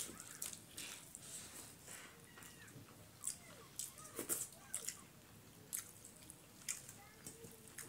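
Hand-eating sounds at close range: wet chewing and lip smacks, with soft squelching clicks as fingers mix rice and chicken curry on steel plates. The clicks and smacks come one at a time every half second or so.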